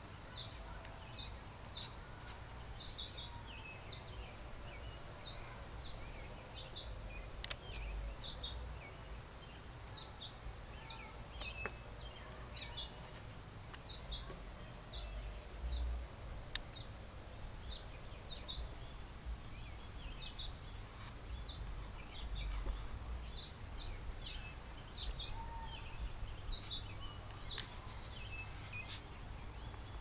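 Birds chirping: many short, high chirps scattered throughout, over a low steady rumble, with a few sharp clicks.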